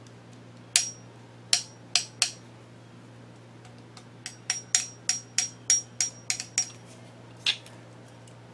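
Grinding wheel of a drill grinder tapped for a ring test: four sharp taps, then a quicker run of about nine, then a last one, each with a short high ring. The owner judges it not a true ring, a sign the wheel may be cracked or damaged.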